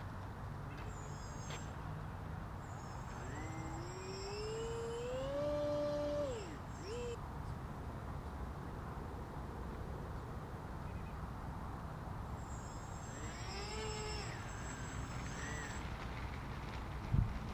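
Electric motor and propeller of a small RC airplane whining, rising in pitch for a few seconds and then dropping away sharply, then rising and falling again more faintly, over a steady low rumble.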